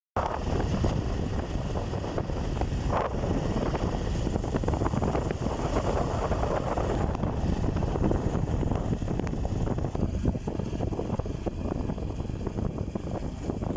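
Bajaj Pulsar 150's single-cylinder engine running as the motorcycle is ridden, with heavy wind buffeting on the microphone.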